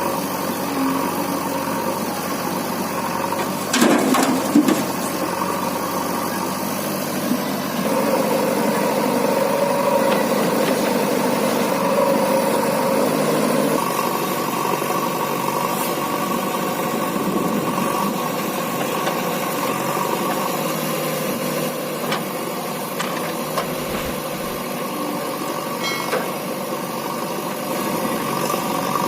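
Heavy diesel engine running steadily, with a short louder knock about four seconds in and changes in engine note around eight and fourteen seconds in.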